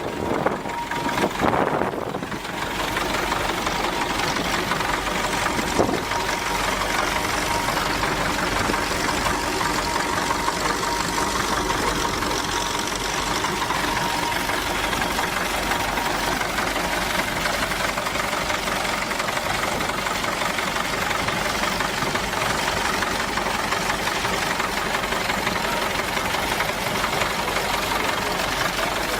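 Vintage tractor engine running steadily, with a single sharp knock about six seconds in.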